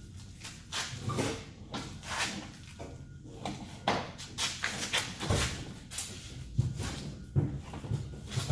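Irregular knocks, clunks and scrapes of a bench seat being worked loose and pulled out of a square-body Chevrolet C10's cab.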